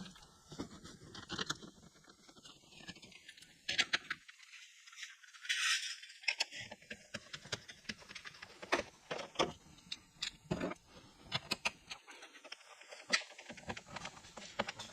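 Irregular clicks, clinks and rattles of small metal items being handled, with a short scraping hiss about five to six seconds in.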